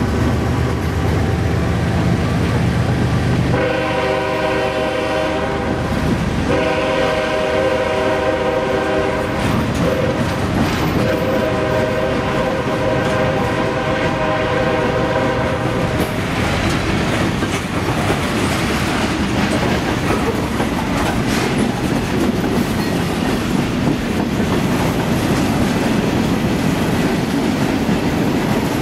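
Freight train rolling past: steel wheels clacking over rail joints and cars rattling. The locomotive's air horn sounds about three seconds in, in the grade-crossing pattern of two long blasts, a short one and a long one, then stops, leaving the wheel and rail noise.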